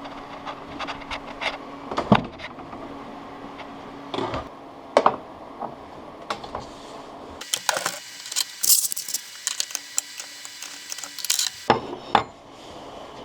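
Scattered knocks and clicks of parts being handled on a workbench, over a faint steady hum. In the middle, for about four seconds, the knocks give way to a steady high hiss with a faint buzz.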